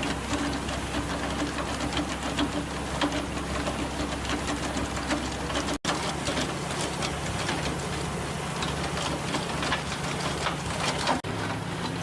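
Trenching machine running, its engine humming steadily under a dense clatter of the digging chain working through soil. The sound changes abruptly twice, about six and eleven seconds in, where the footage cuts between clips.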